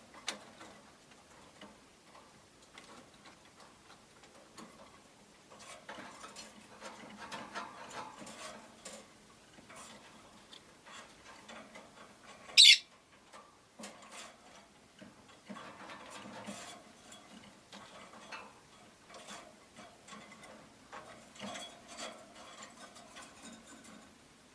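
Rosy-faced lovebirds in their cage: faint scattered clicks and rustles, with one short, loud, high-pitched chirp about halfway through.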